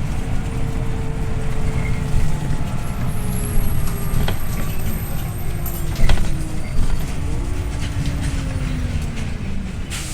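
Scania OmniLink I city bus heard from inside the passenger cabin while driving: a steady low diesel and road rumble with rattles and a couple of sharp knocks. A whine falls slowly in pitch over the second half, as the bus slows.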